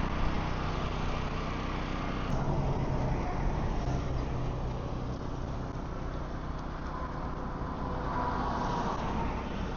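An engine running steadily, with a broad hiss over it that drops away about two seconds in.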